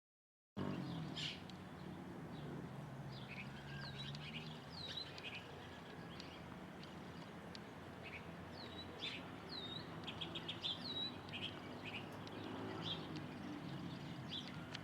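Wild birds calling and chirping, with repeated short, falling whistles and quick chirps from several birds. The sound starts abruptly just after the beginning and cuts off at the end.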